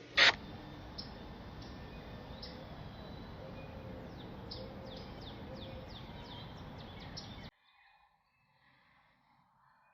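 A sharp knock just after the start, then steady outdoor background noise with a bird chirping in short, falling notes that come faster in the second half. It all cuts off abruptly about seven and a half seconds in.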